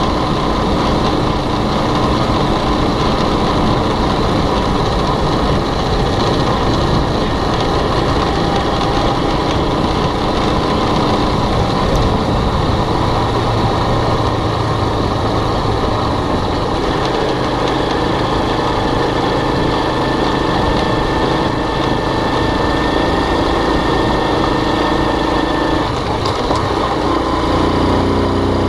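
Motorbike engine running steadily while riding, under a constant rushing noise.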